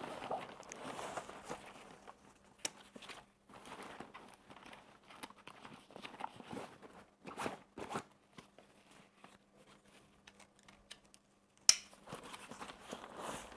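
Rustling and scattered light clicks as a fabric sports bag is opened and handled, with one sharp click near the end.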